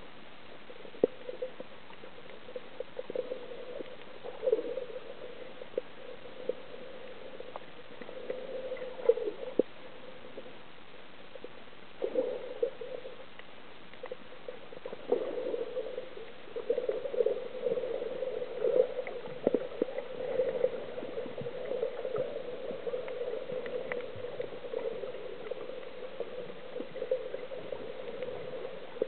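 Muffled water gurgling and bubbling with scattered small clicks, coming in patches at first and nearly continuous from about sixteen seconds in.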